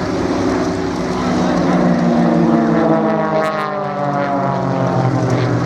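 Propeller engines of the Global Stars' Extra 330 SC aerobatic planes running in past the crowd line, their drone dropping in pitch as they go by.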